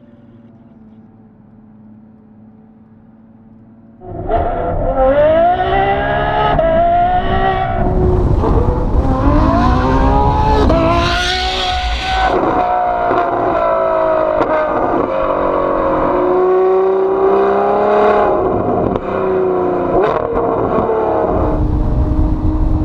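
Novitec Rosso N-Largo (modified Ferrari F12) V12 with a loud aftermarket exhaust. It idles faintly for about four seconds, then suddenly turns loud as the engine is revved and accelerates, its pitch climbing and dropping several times.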